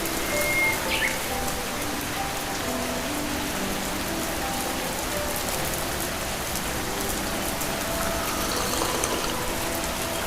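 Steady rain falling, an even hiss throughout, with faint soft melodic notes underneath.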